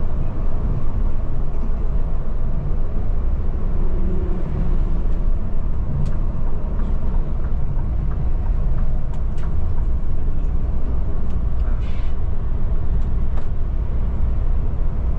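Steady drone of a Scania Metrolink multi-axle coach under way: engine and road noise, with a few faint clicks and rattles.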